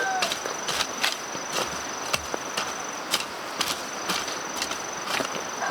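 Insects calling: a thin, steady, high-pitched drone. Over it come irregular sharp clicks or knocks, two or three a second, from an unseen source.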